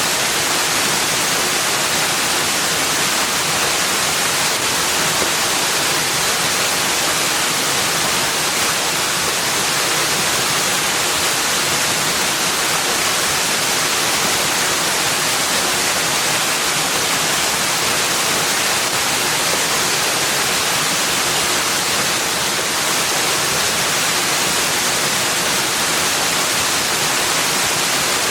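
Steady, unbroken rush of falling water, even and hissy, with no changes or distinct events.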